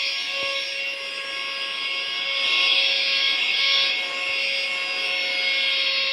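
Portable handheld vacuum cleaner running, a steady motor whine over a rushing airflow that swells louder for a second or so in the middle.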